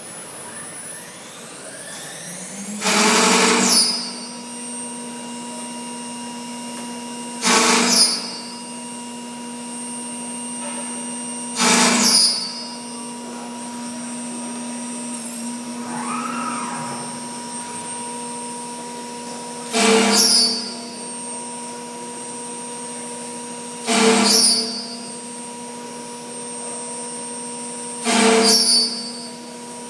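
Kombimatec AMC702 CNC machining centre running a cycle: a steady spindle hum, broken six times by loud bursts of about a second each as the tool machines the profile.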